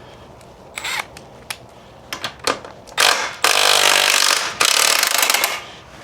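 A few sharp metal clinks, then a power tool running in three short bursts over about two and a half seconds.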